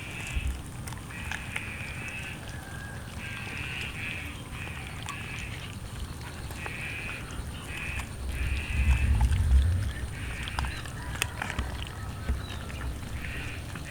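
Cats making short, repeated vocal sounds, about a dozen in a row, while eating roast chicken, with scattered sharp clicks of chewing. A low rumble swells around the middle.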